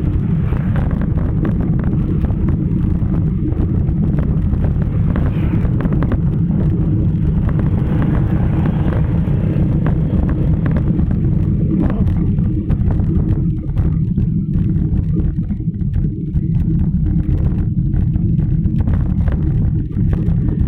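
Steady low rumble of wind buffeting the microphone during a bicycle ride, with some road noise.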